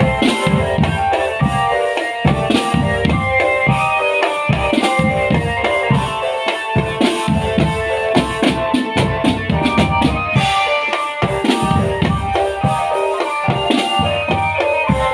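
Marching drum band playing: bass drums and snare drums beat a busy rhythm under a sustained melody line.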